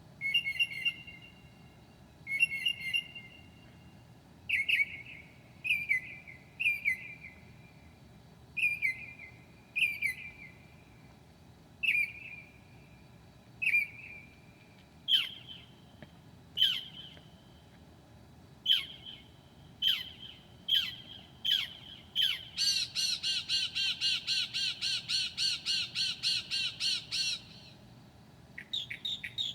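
Northern mockingbird singing: a short two-note phrase repeated about once a second, then a run of sharp falling notes, then about five seconds of fast repeated notes near the end.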